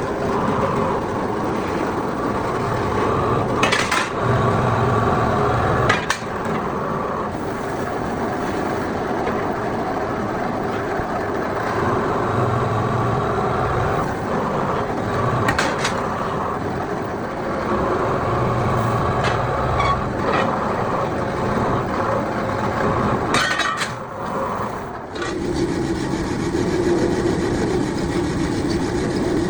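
Steady hum of running workshop machinery, with a few sharp metal knocks.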